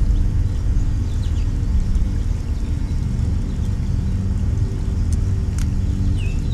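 Steady low rumble with a machine-like hum, like a running engine or traffic, with a few faint, short high bird chirps over it and one sharp click near the end.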